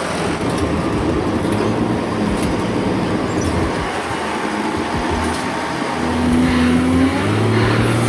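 Heavy truck engine running under load with road noise; the engine note grows louder about six seconds in.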